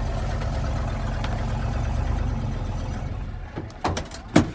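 Propane-fuelled Ford 460 big-block V8 running rough just after a cold start at −15 °C, its low rumble sagging about three seconds in, then two sharp bangs half a second apart near the end.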